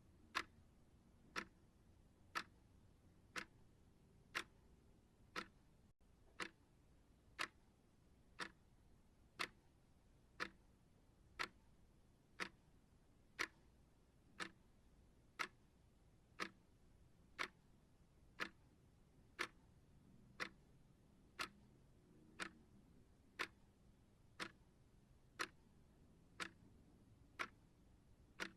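Clock ticking steadily, one sharp tick each second, every tick alike.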